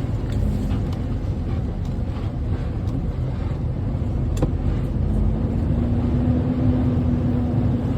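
Truck engine running with a steady low rumble, a faint hum joining in from about five seconds in, and one brief click midway.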